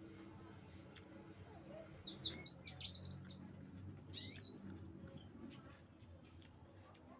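A small bird chirps several quick times, loudest about two and four seconds in, over faint close-up clicks and smacks of eating.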